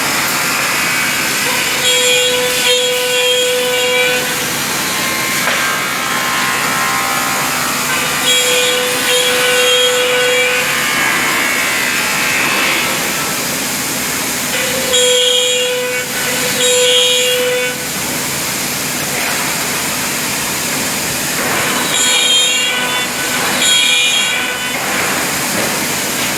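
Woodmaster 3D Pro Master T3 CNC router running and cutting wood: a steady noise, with a whine from the spindle cut that comes in for two to three seconds at a time, four times, about every six and a half seconds.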